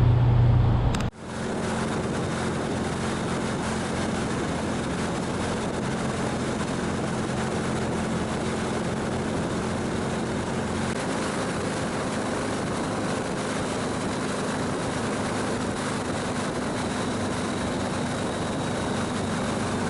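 V-twin cruiser motorcycle riding at a steady speed, its engine running under a constant wash of wind noise on the camera's built-in mic. A different, louder sound cuts off abruptly about a second in.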